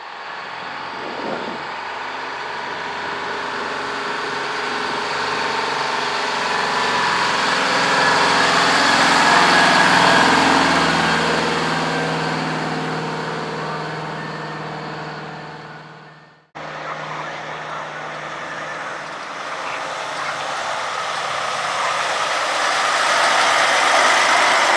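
Diesel semi truck engine getting louder as the truck approaches, peaking and fading as it passes. About sixteen seconds in the sound cuts off abruptly, and another truck engine rises as it comes closer.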